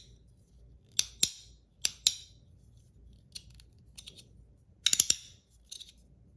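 Magnetic parts of a PEI and aluminium fidget slider clicking together by hand: a pair of sharp clicks about a second in, another pair about two seconds in, a few fainter ticks, then a quick run of clicks near the five-second mark.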